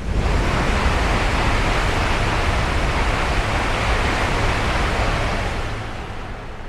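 Chinese high-speed EMU train passing at speed: a loud rushing of wheels and air that comes on suddenly, holds steady for about five seconds, then fades away.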